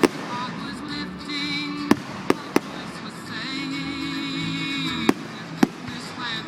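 Fireworks shells bursting in sharp, separate bangs: one at the start, a quick cluster of three around two seconds in, and two more about five seconds in. Music with sustained notes plays underneath.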